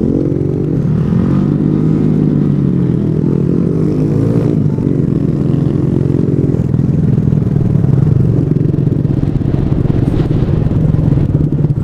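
Small 125cc single-cylinder motorcycle engine running under way, its pitch rising and falling through the first few seconds, then holding steadier.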